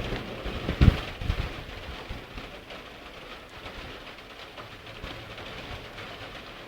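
Heavy rain falling steadily during a thunderstorm, with a couple of short low thumps about a second in.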